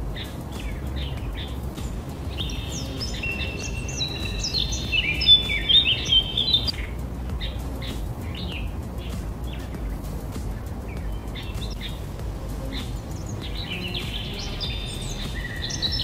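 Small birds chirping and twittering over a steady low outdoor rumble, with a dense flurry of calls a few seconds in and another near the end.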